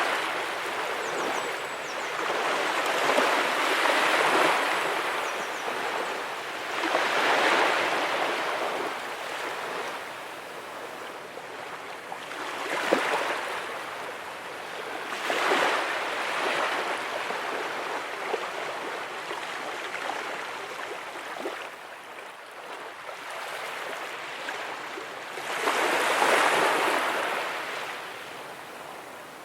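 Small ocean waves breaking and washing up the shore, the surf swelling and fading every few seconds, with a last strong surge near the end.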